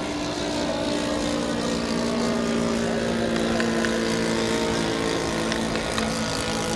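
Giant-scale radio-controlled model airplane flying, its engine and propeller giving a steady drone that drifts slightly in pitch.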